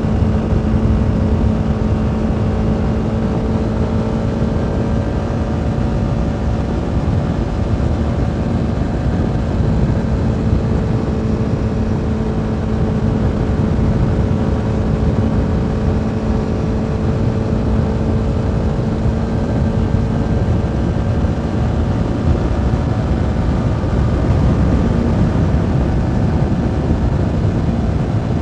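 CFMoto 300NK's single-cylinder engine running at a steady cruise, with its pitch holding nearly level over a dense low rumble.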